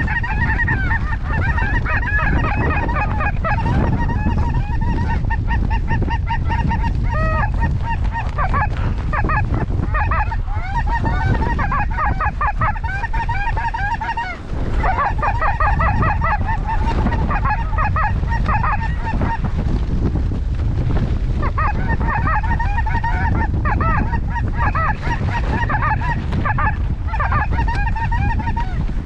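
A mass of snow goose calls, many short high honks overlapping without a break, over heavy wind noise on the microphone.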